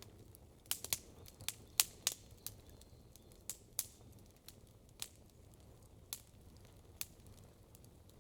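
Campfire wood crackling: a quick cluster of sharp pops in the first two seconds or so, then single pops scattered about once a second, over a faint steady low background.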